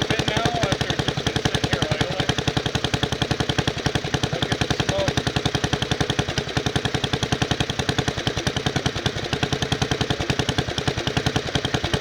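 Wisconsin S8D single-cylinder air-cooled engine on a garden tractor running at low throttle shortly after a cold start, its exhaust beating in a steady, rapid, even rhythm. At this setting it is the engine the owner says sounds like it wants to die.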